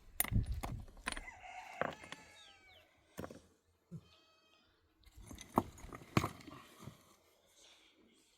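A rooster crowing, followed a little later by a short steady call, among scattered sharp knocks and clinks.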